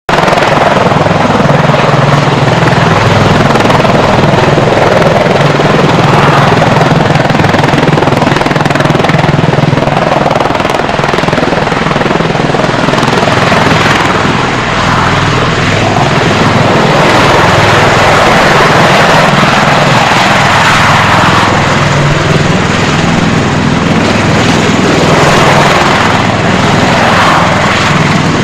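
Boeing MV-22B Osprey tiltrotor coming in to land: its two large proprotors and turboshaft engines make a loud, continuous rotor throb that swells and eases slowly.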